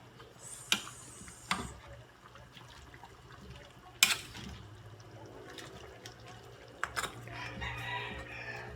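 Chicken curry with potatoes cooking in a pot, a low liquid bubbling, broken by a few sharp knocks on the pot, the loudest about four seconds in and two close together near seven seconds.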